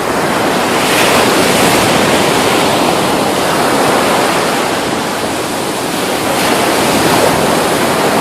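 Loud, steady rush of wind and sea at open water, with wind buffeting the microphone.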